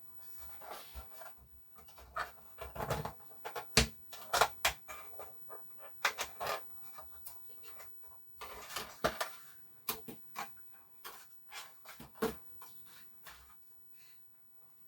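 Irregular clicks, taps and short scrapes of small plastic helicopter parts and a screwdriver being handled while the housing is unscrewed and taken apart.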